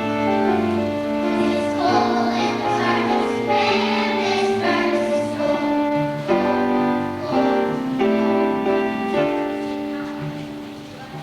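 Children's choir singing with an instrumental backing track, a song from a church musical; it fades down near the end.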